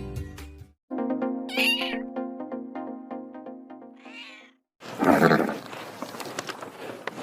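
Two cat meows over a short tune of plucked notes, then a loud rough burst about five seconds in, followed by irregular clattering.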